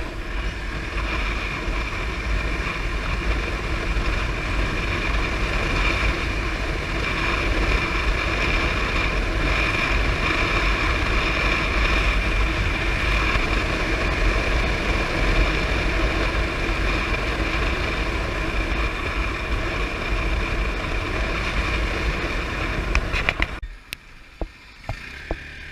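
Wind rushing over the microphone of a moving Hero Xpulse motorcycle, with a steady high whistle over a heavy low rumble. Near the end it cuts to a much quieter sound with a few clicks.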